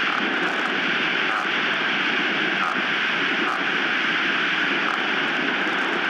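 Strong wind blowing across the nest camera's microphone: a steady, dense rushing noise that holds an even level throughout.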